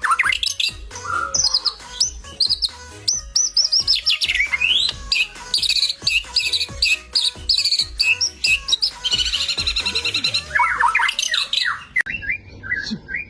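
White-rumped shama (murai batu) singing a long, varied song: loud clear whistles sweeping up and down, mixed with rapid trills and buzzy rattles.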